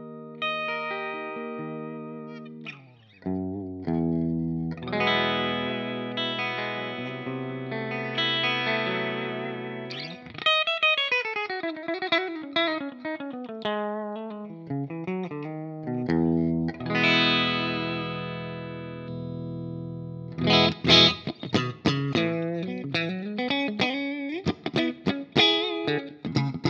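Telecaster-style electric guitar with two humbucking pickups, played through distortion and effects: sustained ringing chords, then a descending lead line with bends and vibrato through the middle. Near the end it turns to fast, choppy staccato riffing.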